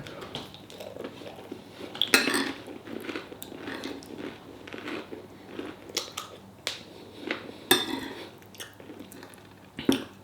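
A person chewing and crunching food, with a few sharp clicks in between.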